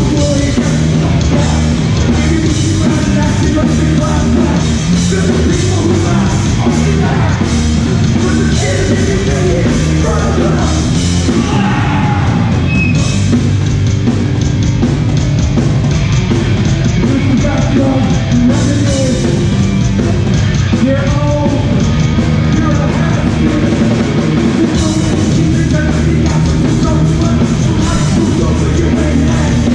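A hardcore punk band playing a song live and loud: full band with shouted vocals.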